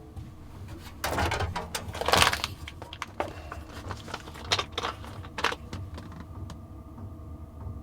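Rustling and a run of light knocks and clicks, heaviest in the first half, over a low steady hum.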